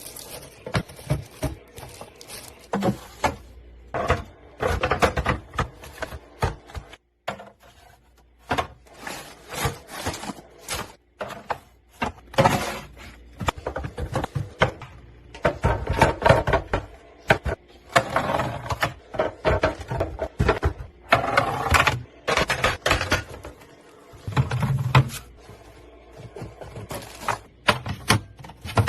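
Containers and packets being handled, set down and shuffled around on shelves: a busy, irregular run of knocks, clicks, scrapes and rustles, with short pauses.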